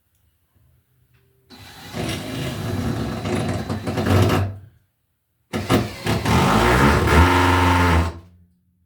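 A motor running in two bursts of about three seconds each, with a short pause between; its pitch rises during the second burst.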